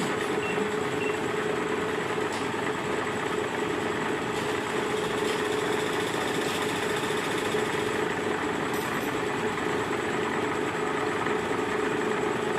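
Milling machine running steadily, with a constant mid-pitched hum over even mechanical noise.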